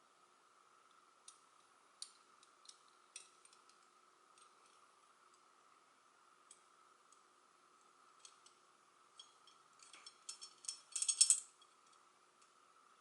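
Small metal puzzle pieces of a Hanayama Enigma cast puzzle clicking and clinking as they are turned and worked apart by hand, with scattered single clicks, then a quick burst of rattling clicks near the end. A faint steady hum sits underneath.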